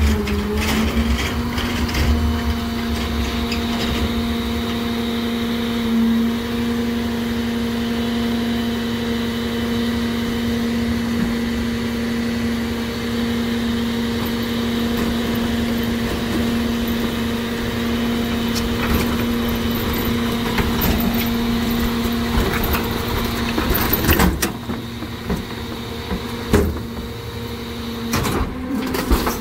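New Way rear-loader garbage truck running with a steady hum that holds one pitch for about twenty seconds. Near the end the hum falls away and a few clunks follow.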